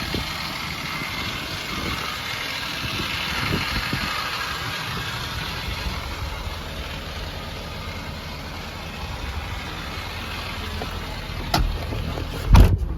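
An engine idling steadily, with a hiss above it; near the end, two sharp knocks, the second much louder.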